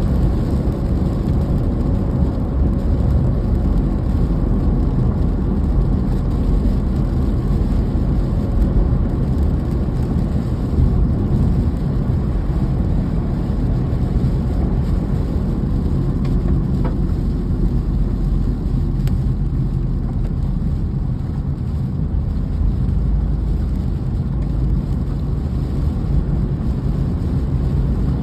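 Steady rain with a continuous low rumble and no distinct sounds standing out.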